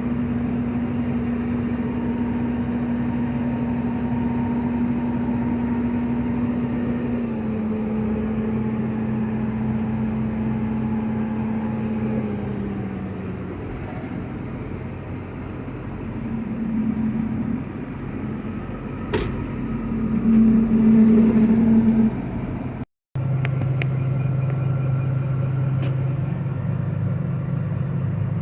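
Harvest machinery's engine running steadily, its pitch stepping down twice, about a quarter and then halfway through. Near the end it drops out for an instant and comes back as a steady, lower engine hum.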